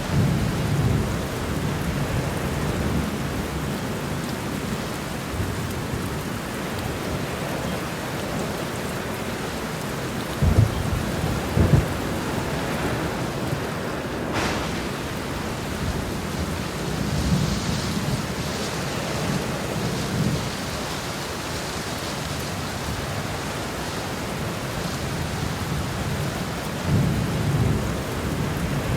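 Heavy rain falling steadily as a thunderstorm rolls through. Low thunder rumbles come and go several times: at the start, about a third of the way in, in the middle and near the end. A couple of sharp claps come about ten seconds in, and a crack follows a few seconds later.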